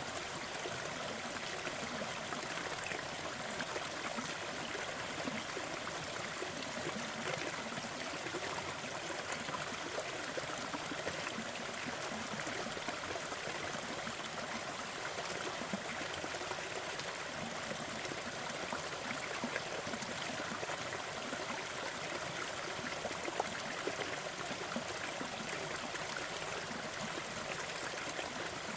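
Waterfall: a steady rush of falling water with small splashy ticks here and there.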